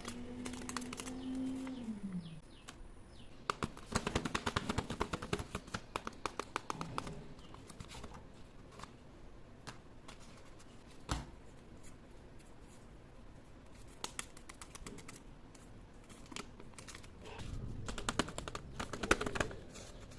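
Paper and tape crinkling and clicking as a handmade paper blind bag is opened and handled, in fast crackly bursts about four to seven seconds in and again near the end, with a few single ticks between.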